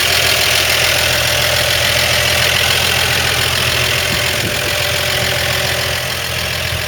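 1955 Chevrolet 3100 pickup's original 235 cubic inch straight-six idling steadily and quietly, with little of the tappet noise these engines usually make.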